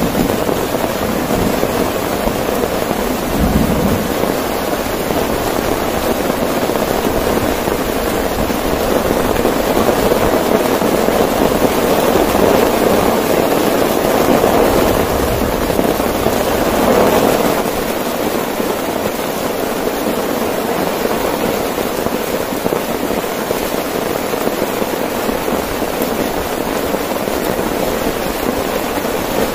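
Heavy rain pouring on a tent, with a short low rumble of thunder a few seconds in. The downpour swells louder for several seconds and then drops back abruptly a little past halfway.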